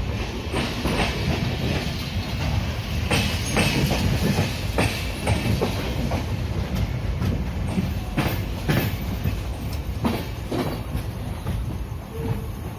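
Netravati Express passenger coach rolling along the track, heard from inside the coach: a steady low rumble with sharp clacks of the wheels over rail joints, mostly in pairs about half a second apart.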